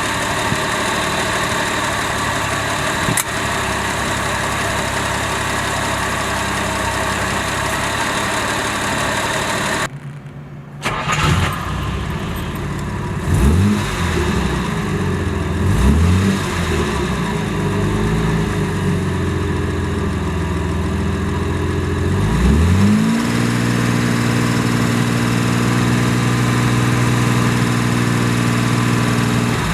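1969 Jaguar E-type's straight-six engine idling steadily. About ten seconds in the sound breaks off briefly, then the engine runs again and is revved three times, each rev rising and falling. It then holds at a steady, higher speed.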